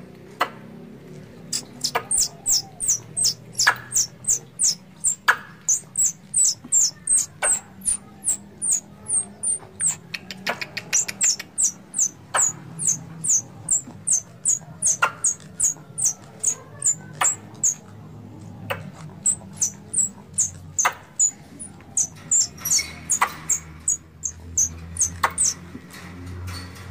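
Squirrel calls used as a hunting lure: long runs of sharp, high chips, each dropping a little in pitch, several a second with short breaks between runs, over a faint low hum.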